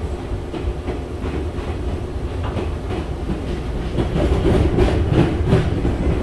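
Meitetsu 5000 series electric train running, heard from inside the car: a steady low rumble under a faint steady hum, with repeated clacks of the wheels over rail joints. The sound grows louder about four seconds in.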